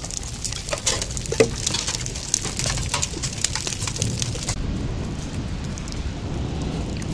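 Hail and rain falling, hailstones striking with many sharp ticks over a steady hiss of rain and a low rumble. The ticks thin out about four and a half seconds in.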